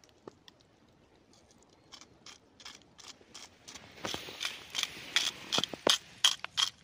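Pepper mill being twisted, a run of irregular crunching clicks that gets louder about four seconds in.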